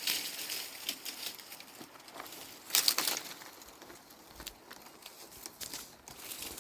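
Crinkling, scraping handling noises with scattered clicks, loudest in one burst about three seconds in.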